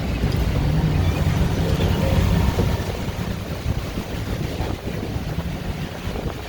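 Boat motor running with wind buffeting the microphone, easing off slightly after about two and a half seconds.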